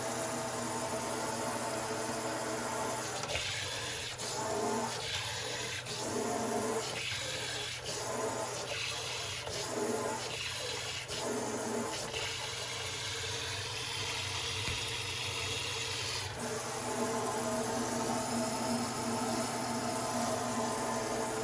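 Water running from a TOTO single-lever kitchen mixer tap, a steady rushing flow; from about three to twelve seconds in its sound changes in a regular pattern about once a second, then steadies again.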